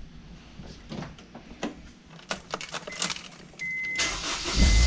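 Scattered clicks and rustles, then a dashboard warning chime beeping. About four seconds in, the Honda S2000's four-cylinder engine is cranked from the push-button starter and catches, running loudly. The car has a misfire code logged for cylinder one, though the owner finds it doesn't sound bad at all.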